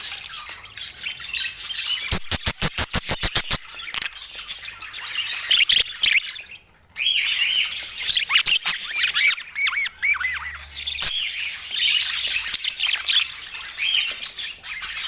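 Budgerigars chattering, warbling and squawking, with quick gliding chirps. About two seconds in there is a rapid run of sharp clicks, about ten a second for a second and a half. A brief near-silent gap falls a little before the middle.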